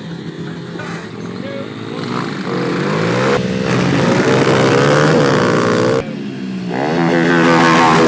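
Small off-road vehicle engine revving up and down repeatedly. It breaks off abruptly twice, and near the end it climbs in a long rising rev.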